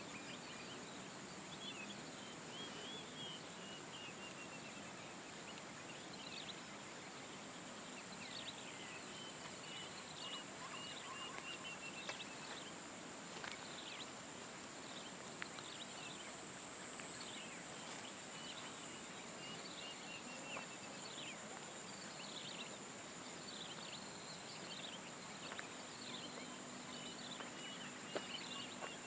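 Outdoor nature ambience: a steady high-pitched insect drone under many bird calls, which come as short chirps, quick falling notes and trilled phrases.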